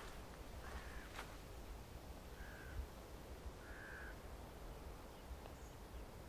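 A bird gives three short calls about a second and a half apart, over a faint steady low rumble of outdoor background.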